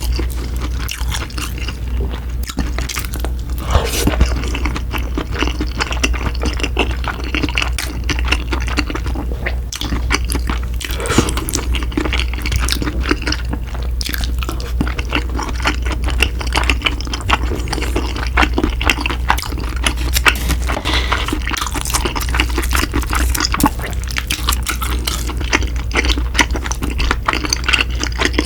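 Close-miked wet, sticky chewing of chewy rice cakes in cream sauce, full of small clicks and smacks, over a steady low hum.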